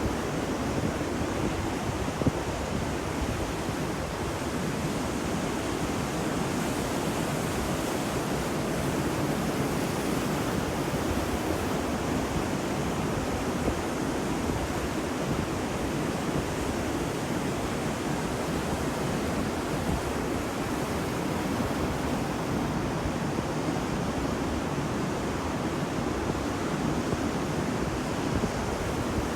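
Ocean surf washing steadily on a beach, a continuous even rush with no distinct wave breaks standing out.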